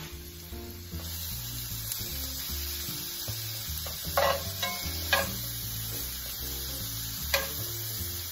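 Sliced onions and green peppers sizzling in oil in a cast-iron skillet while a metal spatula stirs them, scraping the pan sharply three times, twice close together in the middle and once near the end. Background music plays underneath.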